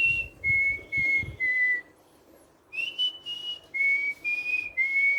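Albino cockatiel whistling a learned tune: clear held notes stepping between pitches, in two phrases with a pause of about a second between them. A few low thumps sound under the first phrase.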